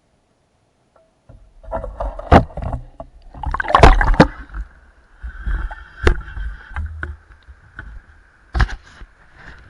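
After about a second of near silence, water sloshing and rumbling with irregular knocks and thumps, loudest around two and four seconds in.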